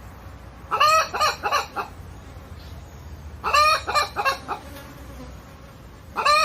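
Mother hen clucking in short runs of four or five quick calls, three runs about three seconds apart, the last starting near the end.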